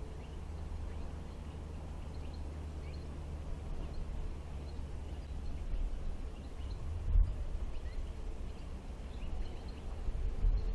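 Open-field ambience: faint, scattered short bird chirps over a steady low rumble, with a few louder low thumps in the second half.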